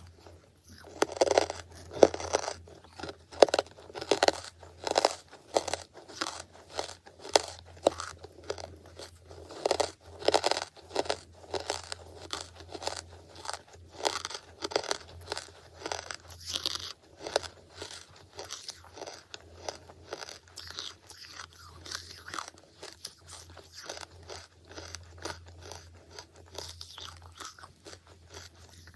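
Close-miked chewing of charcoal: repeated brittle crunches, roughly one or two a second.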